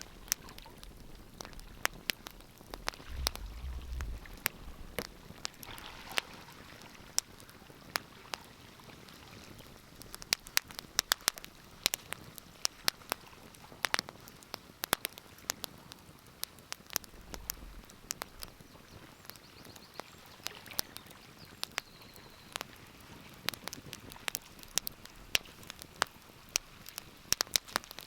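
Wood fire crackling in a fireplace: a faint steady hiss under many irregular sharp pops and snaps, coming thicker and faster from about a third of the way in.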